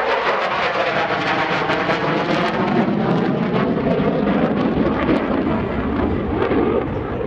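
F-16C Fighting Falcon's General Electric F110 turbofan, loud jet noise from the fighter flying its demonstration pass, its tone sweeping and shifting as the aircraft moves past, easing slightly near the end.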